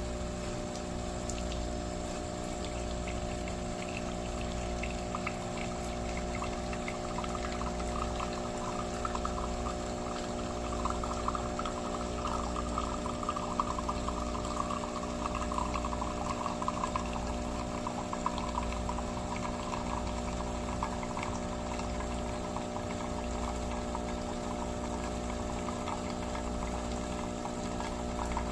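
Philips 4300 Series LatteGo automatic espresso machine running through a cappuccino cycle: a steady pump hum with a low pulse about every second and a half, and liquid pouring into the cup, the pouring louder through the middle.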